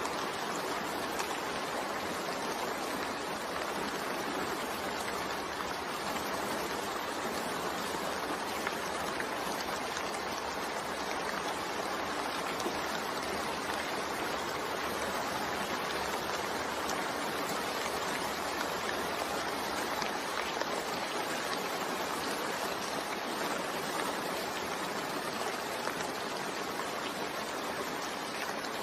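Steady rain falling, a continuous even hiss that holds unchanged throughout.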